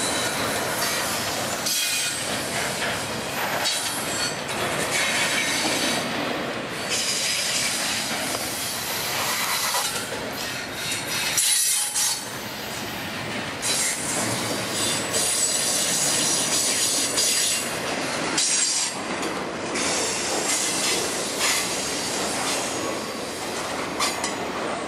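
Double-stack intermodal freight train's container well cars passing at close range, steel wheels running loudly over the rails, with a high-pitched wheel squeal coming and going.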